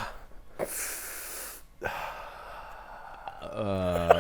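A man making sound effects with his mouth for a game of charades: a long, breathy hiss of an exhale, softer breathing, then a low moan near the end.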